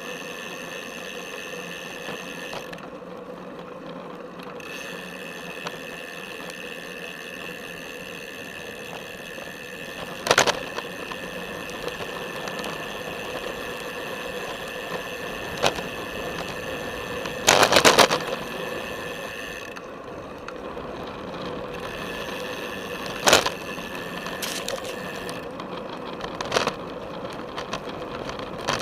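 Felt F75 road bike running along a paved path, heard through its frame: a steady, rapid mechanical buzz from the drivetrain that stops twice for a couple of seconds. Sharp knocks from bumps come through the frame, with a loud rattling cluster about two thirds of the way through and a quick run of clicks at the very end.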